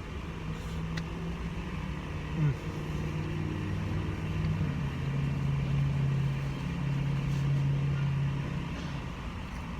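Vehicle engine running steadily, heard from inside the cab as a low hum that settles a little lower about halfway through. A brief falling sound about two and a half seconds in.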